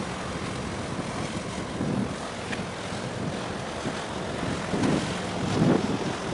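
Wind buffeting the microphone in uneven gusts over a steady rushing noise, the gusts strongest about five seconds in.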